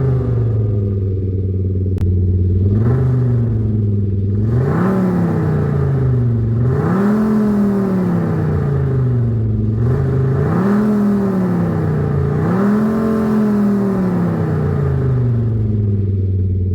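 Kia K5 (DL3) with a Just Active Sound electronic exhaust-sound generator and dual exhaust, revved from idle about six times, roughly every two seconds, each rev rising and falling back to a steady idle. The sound is clean and tonal, as the generator makes it.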